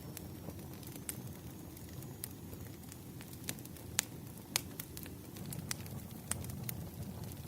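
Burning firewood crackling: irregular sharp pops and snaps over a steady low rumble, with two louder pops about four and four and a half seconds in.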